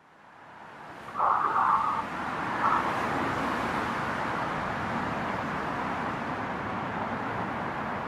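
Recorded road traffic noise played back as a sound clip, fading in at the start and then running steadily, with a brief louder sound a little over a second in and again shortly after.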